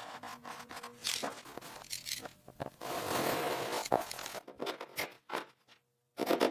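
A brush scrubbing bare metal in short, irregular rasping strokes, with one longer stroke about three seconds in and a brief pause near the end.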